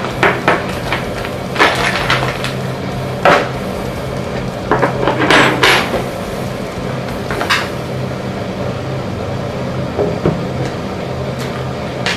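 Small metal motorcycle parts, turn-signal brackets and bolts from a fender eliminator kit, clinking and knocking as they are handled and set down, in a dozen or so short, sharp clicks at irregular intervals. A low steady hum runs underneath.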